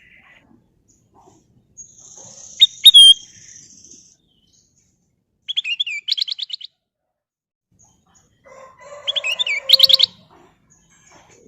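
Kutilang emas, a bulbul, singing in short separate phrases. Two sharp whistled notes come about three seconds in, then a fast chattering run of rising notes near the middle, and another chattering phrase near the end.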